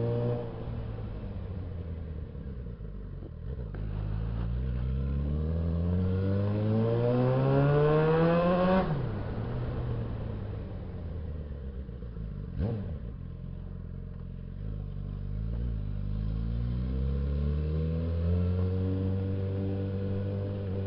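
Suzuki Bandit 650S motorcycle's inline-four engine revs climbing steadily under acceleration for about five seconds, then dropping sharply. It runs lower for a while with a single click, then climbs again and holds steady near the end.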